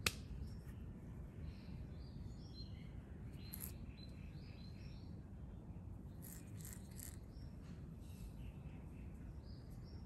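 Faint outdoor garden ambience: scattered short bird chirps over a steady low background rumble, with a single sharp click right at the start.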